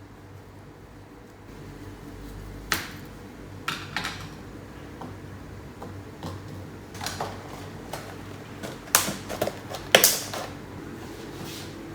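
Irregular clicks and knocks of small objects being handled and set down, over a low steady hum. The knocks come a few at a time and are busiest and loudest toward the end.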